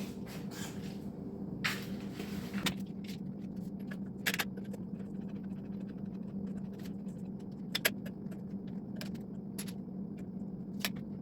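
Steady motor hum with scattered irregular metallic clicks and clinks from handling steel gas pipe and threading tools.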